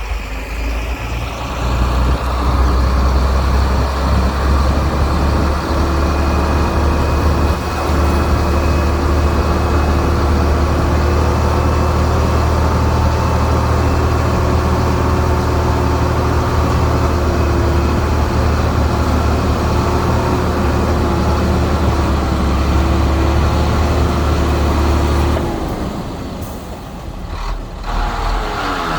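Heavy diesel engine of earthmoving equipment running hard and steadily, with a steady whine over it. Near the end it eases off, then picks up again.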